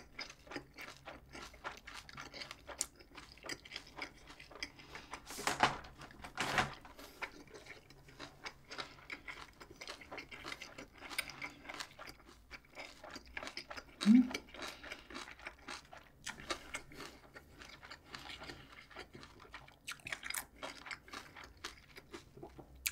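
Close-miked chewing of a bossam wrap with crisp kimchi, many small wet crunches throughout. There are two louder crunches about five and a half and six and a half seconds in, and a short hum of the voice around fourteen seconds.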